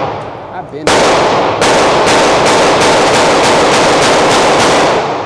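Pistol fired in a rapid string, about four shots a second, after two single shots, each crack smeared by the echo of an indoor range.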